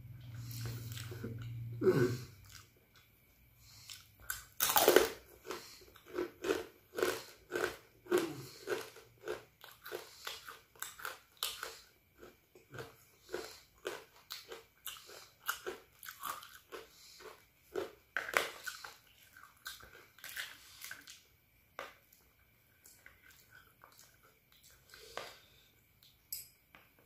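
Close-up chewing of crunchy food, rempeyek peanut crackers with fried noodles, the bites crunching at about two a second through most of the stretch and thinning out near the end.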